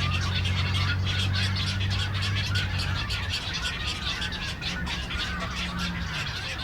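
Nesting colony of great egrets, double-crested cormorants and black-crowned night-herons: a dense, continuous clamor of rapid chattering and croaking calls. A low steady hum runs underneath and fades out about halfway through.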